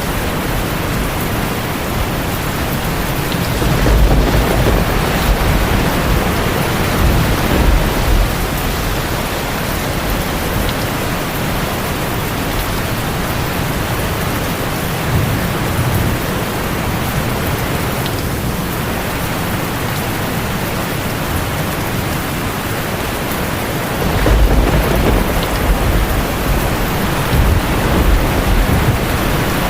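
Steady rain, with low rolls of thunder swelling a few seconds in and again about 24 seconds in.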